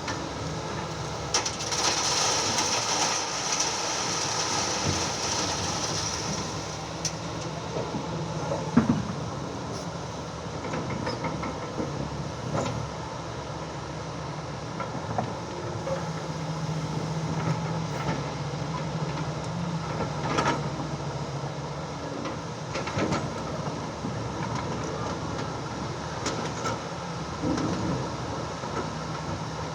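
Excavator's diesel engine running steadily while the machine works, with scattered metallic clanks and knocks. A hiss sounds for a few seconds near the start.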